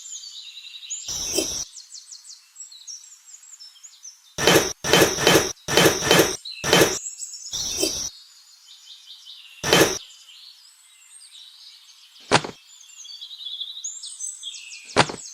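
Birds chirping steadily, broken by about eleven short sharp knocks: one about a second in, a quick run of five around the middle, then single knocks spread out toward the end.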